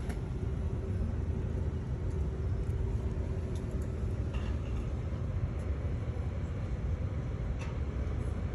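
Steady low rumble of a moving vehicle heard from inside, with a few faint clicks and rattles over it.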